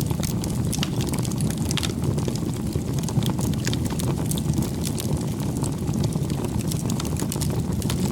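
Wood bonfire burning: a steady low rumble with frequent small, sharp crackles and pops.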